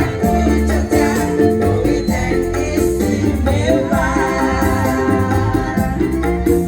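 Live choir music: sustained notes over a keyboard accompaniment with a steady rattling, shaker-like percussion beat.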